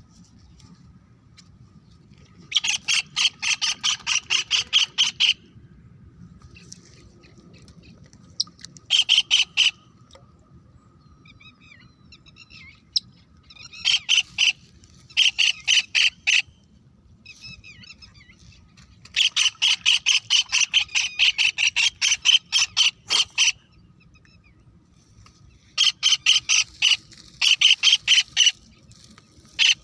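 A bird calling in repeated bouts of rapid, evenly spaced notes. Each bout lasts one to four seconds, with pauses of a few seconds between.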